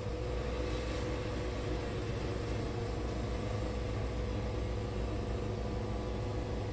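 Wood-Mizer band sawmill running steadily, a constant even machine hum with a steady mid-pitched tone.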